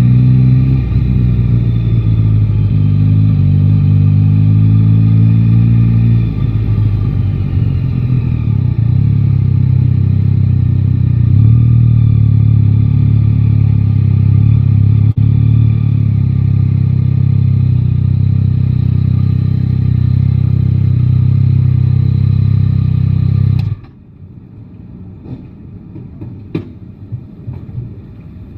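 Yamaha Tracer 9 GT's inline-three engine running under riding load, its pitch rising and falling with the throttle for the first several seconds, then holding steady. About 24 seconds in the engine sound cuts off suddenly, leaving a much quieter background with a few ticks.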